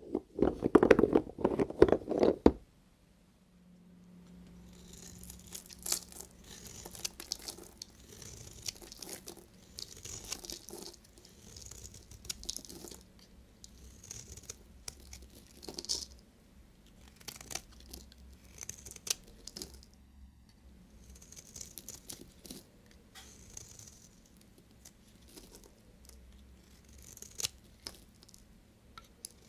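A knife slicing through bars of soap. A loud cluster of crunchy cuts comes in the first two or three seconds, then a run of separate scraping slices follows about once a second.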